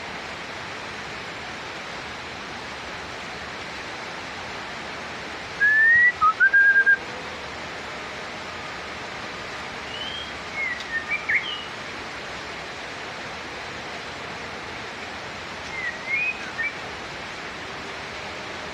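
White-rumped shama (murai batu) giving three short bursts of clear whistled notes a few seconds apart, over a steady hiss.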